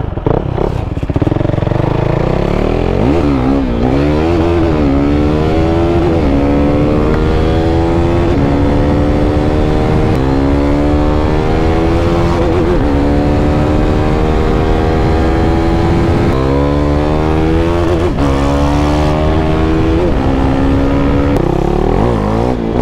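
KTM RC 390's single-cylinder engine through its stock exhaust with the dB killer removed, accelerating and shifting up through the gears. The pitch climbs and then drops at each shift, again and again.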